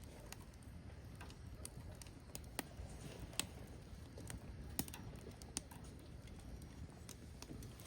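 Burning firewood crackling: irregular sharp pops and snaps scattered over a low, steady rumble of the fire.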